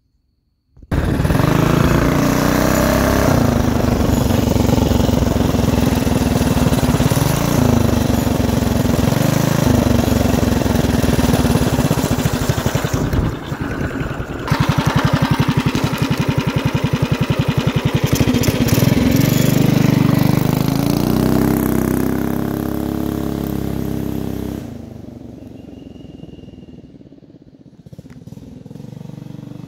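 Mini bike's small single-cylinder engine running hard as it rides past, its pitch rising and falling with the throttle and dipping briefly about halfway. It fades away after about 25 seconds and grows louder again near the end as the bike comes back.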